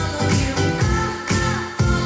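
Pop dance music with a heavy bass beat, about two beats a second, played back through a Panasonic SA-PM19 mini hi-fi system's speakers.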